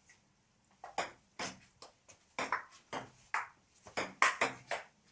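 Table tennis rally: the ball clicking quickly back and forth off the bats and the table, starting about a second in, with about a dozen sharp hits.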